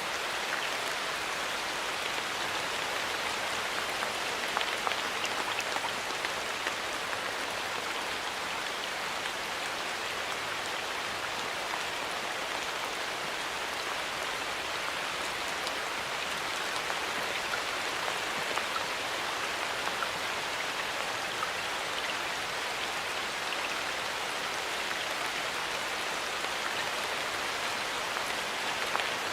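Steady rain falling in a forest, a dense patter of drops on leaves and ground.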